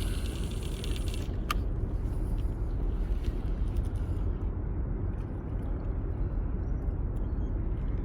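A steady low rumble with no clear pattern, and one faint click about a second and a half in.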